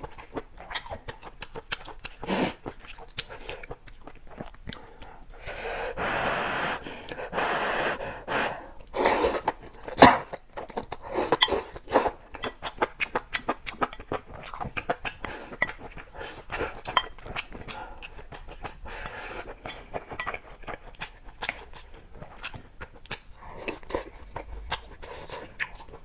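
Close-miked chewing and mouth sounds of someone eating: many small, quick, wet clicks, with a longer noisy stretch about six to eight seconds in.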